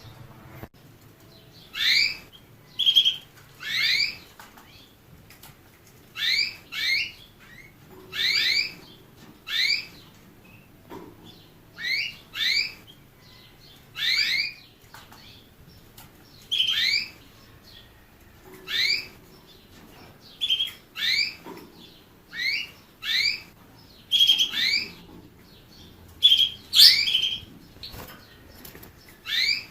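Small cage songbird of the finch kind calling: a string of short, bright chirps, each a quick falling sweep, about one a second at uneven spacing.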